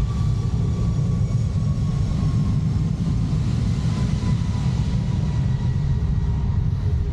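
Heavy rumble of wind and riding noise, with the whine of a passing jet airliner sliding slowly down in pitch and its hiss swelling midway.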